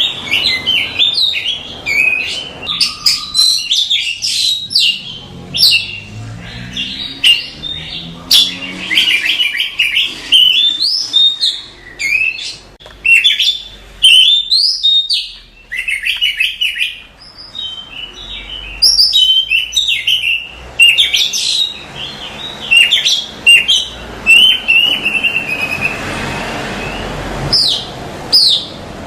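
Oriental magpie-robin (kacer) singing a fast, varied song of whistles, trills and chirps with short gaps, and a spell of hiss behind it near the end.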